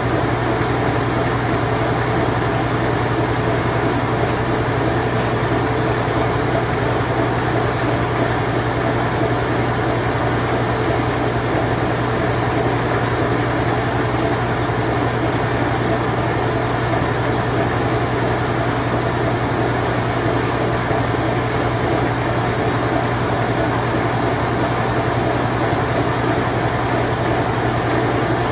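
Late-1980s Whirlpool Imperial Clean Touch top-loading washing machine in its spin cycle: a steady motor hum with a dense, even whir over it.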